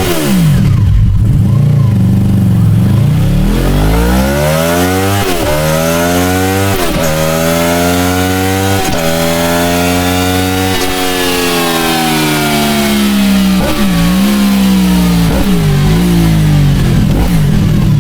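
Honda VFR800F's V4 engine through a GRmoto X Series aftermarket exhaust, running on the move: the pitch climbs and drops sharply about four times as it shifts up through the gears, then falls away with a couple of brief dips as it slows.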